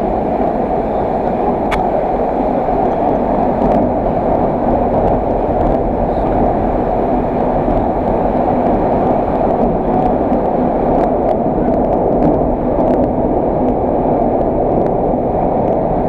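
Steady, muffled rumble and rushing of a moving rail train heard from inside the carriage, with a few faint clicks.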